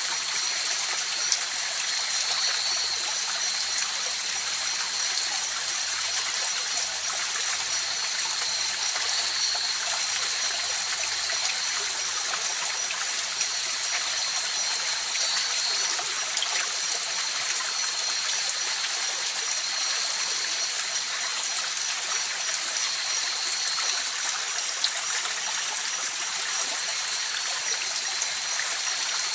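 A river or stream flowing steadily over rocks, making an even rushing and trickling sound. Two faint, steady high-pitched tones run above it throughout.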